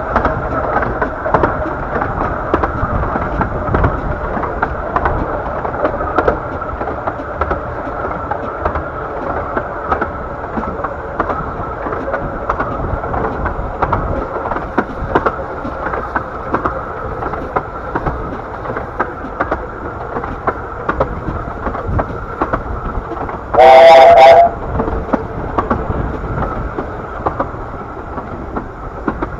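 Narrow-gauge steam train running along, with a steady rumble and rail clicks from the wheels. One short, loud whistle blast from the locomotive sounds near the end.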